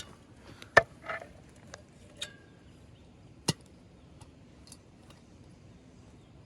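Scattered sharp knocks and clicks, five or six in a few seconds, with the loudest just under a second in and another about halfway through.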